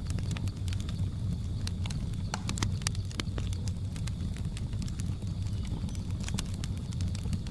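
Wood fire crackling: irregular sharp pops and snaps over a steady low rumble of the flames, with a faint steady high tone running underneath.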